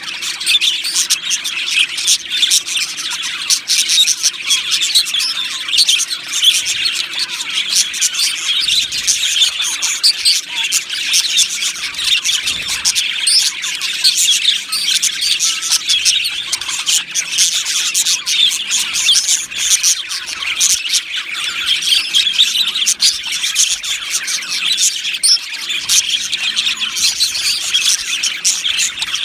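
A flock of budgerigars chattering and chirping together, many high calls overlapping without a break.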